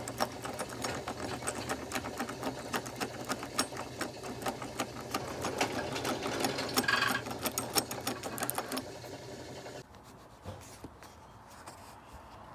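Small 33 cc two-stroke trimmer engine driving an RC boat, running with a fast mechanical clatter and a steady low hum, then cutting out suddenly about ten seconds in.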